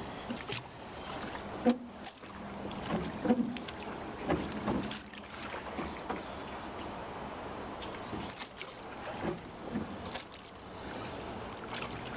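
Small boat moving through floodwater: water sloshing and splashing, with several short sudden knocks or splashes over a faint steady low hum.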